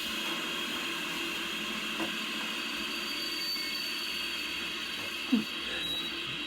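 Steady, unchanging outdoor background noise recorded by a trail camera, a continuous buzzing hiss, with one short knock a little past five seconds in.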